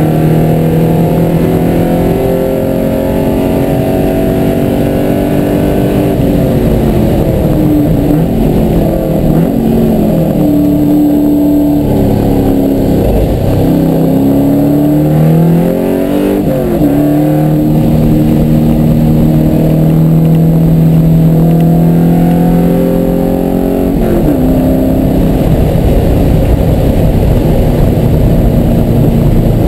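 Car engine heard from inside the cabin at speed on a race track, held high and steady, then falling in pitch as the car slows for corners and rising again under acceleration, with a long steady pull in the middle and another drop near the end.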